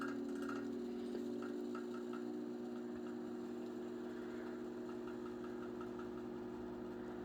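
Chicago Electric Handybreeze model 314 table fan running on low speed with oscillation: a steady motor hum with a light rhythmic knocking, about four to five knocks a second, that comes and goes. The owner puts the knocking down to worn bearings.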